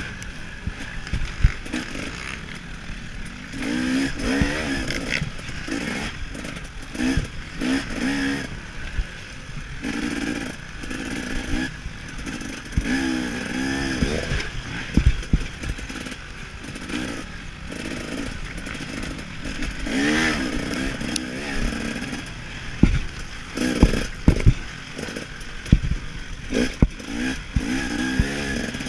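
KTM 300 XC-W two-stroke dirt bike engine being ridden hard, its revs climbing and dropping again and again through the gears and corners. Sharp knocks and clatter from the bike over bumps, most of them in the last third.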